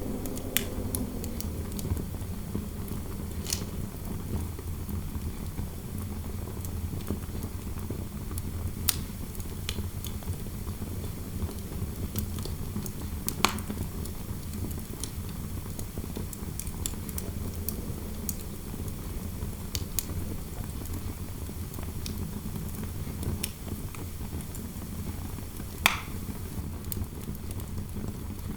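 Fireplace fire crackling, with irregular sharp pops of burning wood over a steady low rush of interior wind noise.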